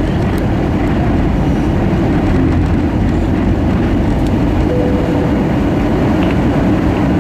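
Steady rumble of an Airbus A320-232 airliner heard inside the passenger cabin: engine and airflow noise.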